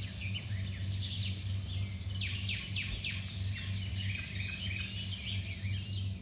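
Small birds chirping in quick, downward-sweeping notes, many in a row, over a steady low hum.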